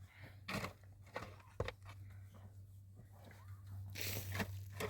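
A few sharp crunches and clicks, then a louder rough scraping or rustling sound about four seconds in, over a low steady hum.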